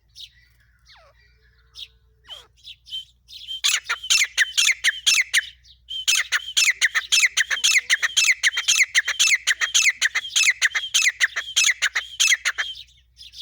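Female grey francolin (desi teetar) calling: a few scattered notes, then from a few seconds in a fast, continuous run of short repeated chirping notes, with a brief pause before it carries on almost to the end.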